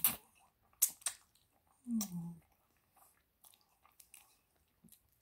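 Close-up eating sounds: fettuccine Alfredo noodles slurped into the mouth, then wet chewing with small mouth clicks. A short hummed "mm" falling in pitch about two seconds in.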